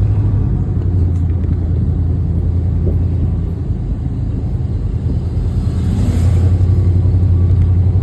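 Car driving, a steady low rumble that eases off slightly about three and a half seconds in and swells again about six seconds in.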